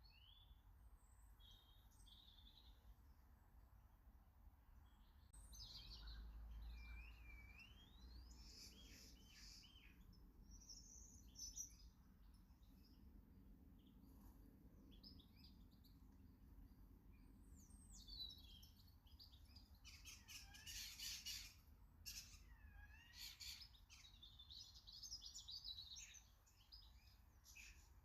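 Small garden birds calling faintly: short chirps and whistles that swoop up and down in pitch, with a busier spell of rapid notes about twenty seconds in.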